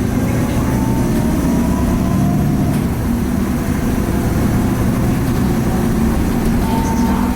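Cummins ISL diesel engine of a 2010 Nova Bus LFS articulated city bus running steadily under way, heard from inside the cabin. A faint turbo whine glides slowly up and down above the engine.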